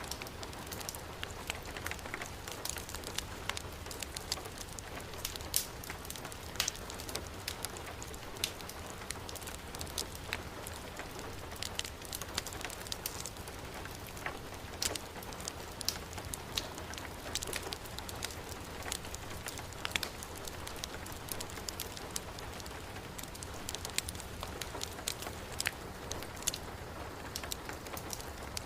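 Heavy rain falling in a steady hiss, with a wood fire's irregular sharp pops and crackles over it.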